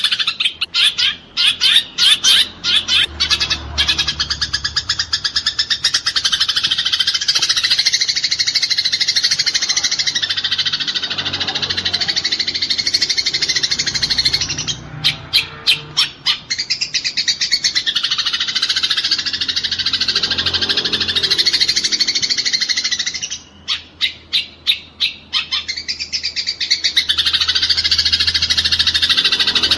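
Eurasian tree sparrows (burung gereja) chattering in a fight: a dense, rapid, continuous twittering, broken three times by runs of separate loud chirps, at the start, around the middle and about three-quarters through.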